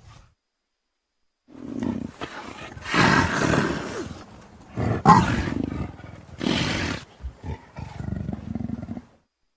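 Custom honey badger sound effect: a string of animal calls in about five bursts, starting about a second and a half in and cutting off abruptly shortly before the end.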